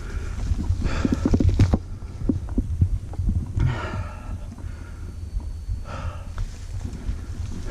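Mountain bike being ridden over rough trail, picked up by a bike-mounted action camera: heavy wind and road rumble on the microphone with irregular knocks and rattles from the bike, and two short rasping sounds about halfway through.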